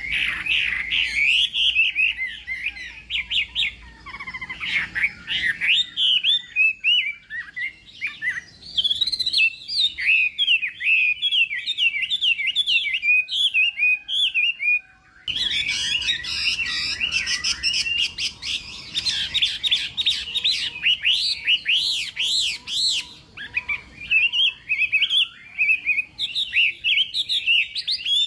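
Chinese hwamei (họa mi) singing a long, rapid stream of varied whistled phrases, with a brief pause about halfway through.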